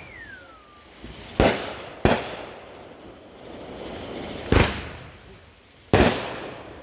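Fireworks exploding: four sharp bangs, the first two about half a second apart and the last two near the end, each trailing off in echo. A short falling whistle sounds at the start.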